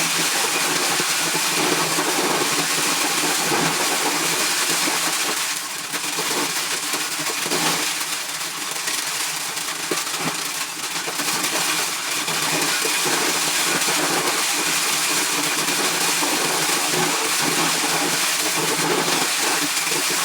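Engine-driven corn shelling machine running steadily, a dense mechanical noise that dips and wavers between about six and twelve seconds in.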